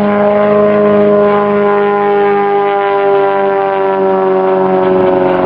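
Propeller engines of two aerobatic Extra aircraft, a full-size Extra 300 and a large-scale model, running at high power while they hang in synchronized torque rolls. A loud, steady, multi-toned drone whose pitch slowly sinks.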